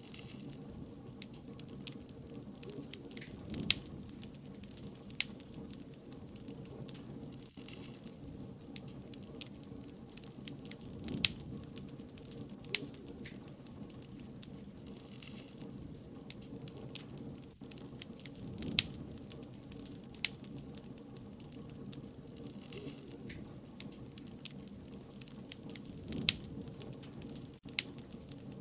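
Wood bonfire crackling: a steady low rush of burning with irregular sharp pops and snaps every second or so.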